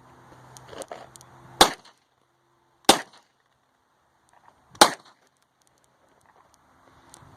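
Three gunshots, sharp and loud, about 1.3 s and then about 1.9 s apart.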